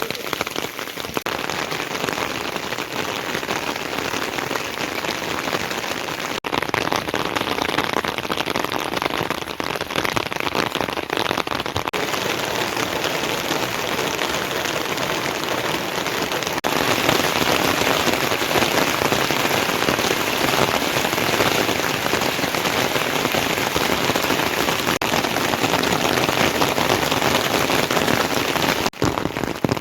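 Heavy rain pouring down in a steady, dense patter; it steps up suddenly and gets louder about two-thirds of the way through.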